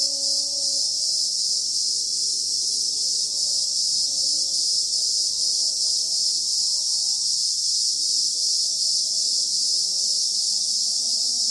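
Dense, steady, high-pitched chorus of insects, with faint wavering lower tones underneath.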